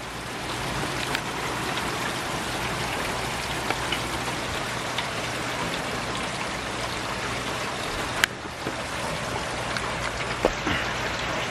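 Steady rain falling, with scattered drops ticking close by and one sharp tap about eight seconds in.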